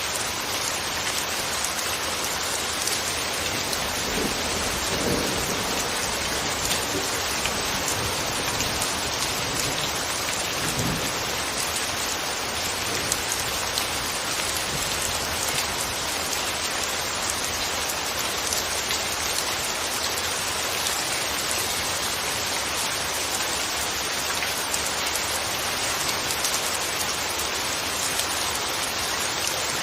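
Steady, dense rain falling on a surface, an even hiss with scattered drop patter. A couple of brief low rumbles rise under it, about four to six seconds in and again around eleven seconds.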